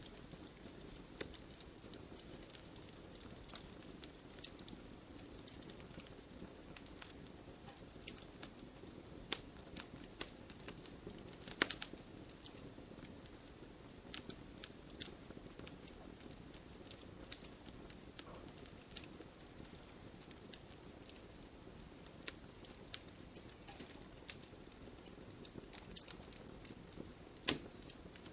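Campfire burning: irregular crackles and sharp pops of the burning wood over a steady soft rush of the flames, with a louder pop about twelve seconds in and another near the end.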